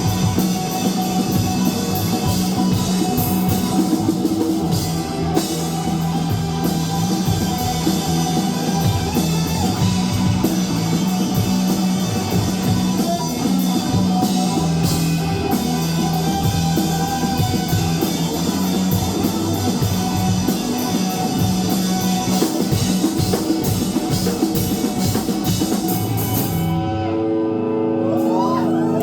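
Live rock band playing an instrumental passage: drum kit, electric guitar and bass guitar. About 27 seconds in, the drums stop and a held chord rings on.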